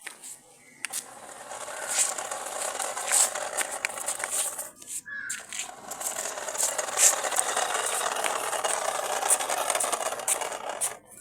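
Continuous scraping and rattling with many small clicks, breaking off briefly about five seconds in.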